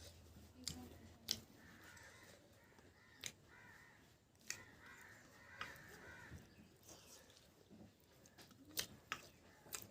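Quiet eating sounds: scattered soft clicks and smacks of chewing, a few seconds apart, with faint calls in the background around two seconds in and again around five to six seconds in.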